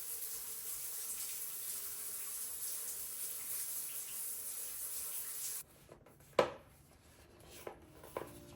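Water running steadily with a hiss, cutting off abruptly a little over five seconds in. Then comes one sharp knock, the loudest sound, followed by a few lighter clicks and taps.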